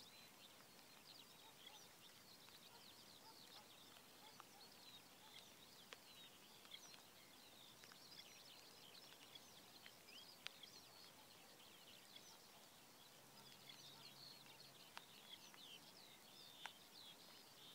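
Faint bird song: many short, high chirps and twitters run throughout, with a few sharp clicks.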